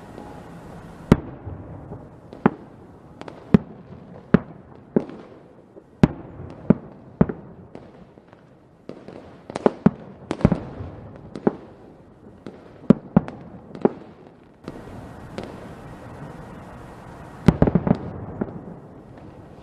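Fireworks going off: sharp bangs at uneven intervals, roughly one a second, over a steady crackling hiss. Near the end comes a quick burst of several bangs close together.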